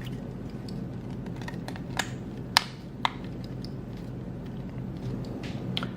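Clicks and taps of small hard plastic parts being handled, as a power board is fitted onto a 3D-printed quadcopter frame. Three sharp clicks come close together between about two and three seconds in, the middle one loudest, over a steady low hum.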